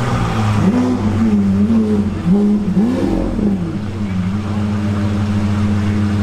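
A sports car engine revved in several quick blips that rise and fall in pitch, then holding a steady note for the last couple of seconds.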